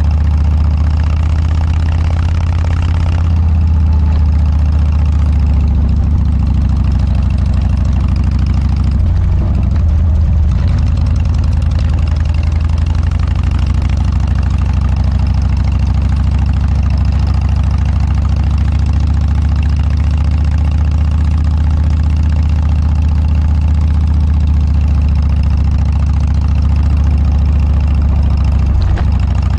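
Harley-Davidson Dyna V-twin running through a Motorstage aftermarket muffler, a steady low exhaust note, with a brief change in pitch about a third of the way in and again near the end.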